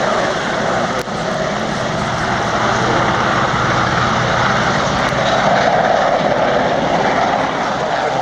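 Propeller aerobatic plane's nine-cylinder radial engine running steadily in flight, its sound swelling slightly a few seconds in.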